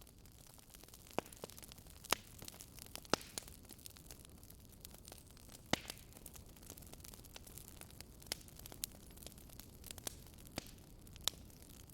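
Wood fire burning in a fireplace: a faint steady hiss with sharp, irregular crackling pops, about eight strong ones scattered through the stretch.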